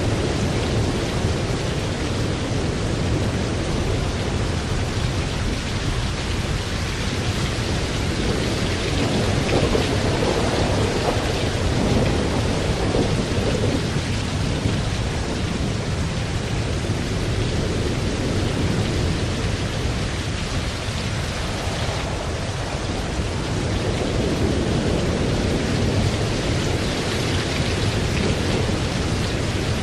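Thunderstorm: steady heavy rain with low, rolling thunder rumbling throughout, swelling and easing slowly.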